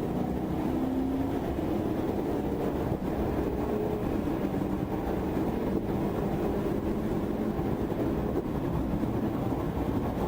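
Steady engine and road noise of a police car driving at high speed in pursuit, a continuous low rumble with a faint steady hum in the first few seconds.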